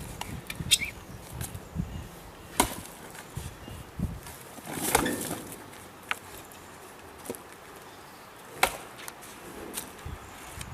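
A cheap Chinese-made axe chopping into a piece of wood: about six sharp blows, irregularly spaced a second or two apart.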